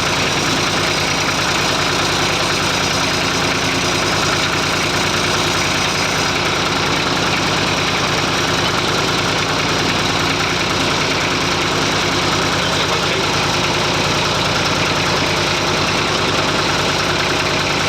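Massey Ferguson 35 tractor engine running steadily, an even chug with no change in speed.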